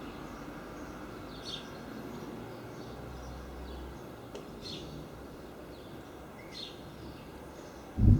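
Steady outdoor background noise with three short bird chirps spread across it. Near the end a sudden loud low thump.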